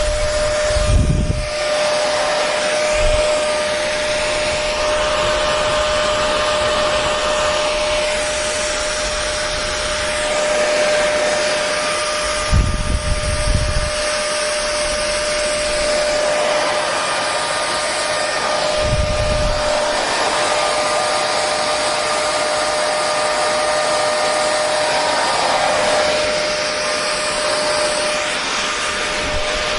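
Hair dryer running steadily: an even rush of blown air with a constant motor whine. A few brief low rumbles break in, about a second in, around the middle, and again a few seconds later.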